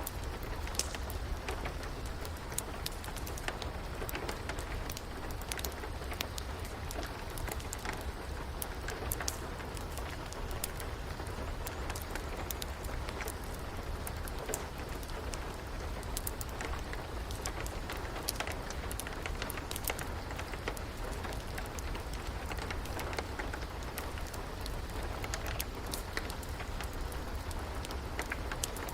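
Steady rain with a low rumble underneath, and scattered sharp pops and crackles of a wood fire burning in a fireplace.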